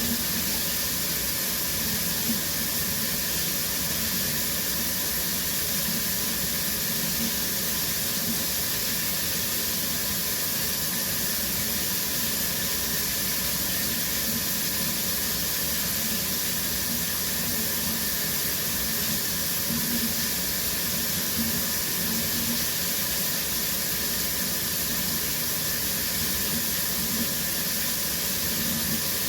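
Shower running steadily: a constant hiss of water spraying and falling.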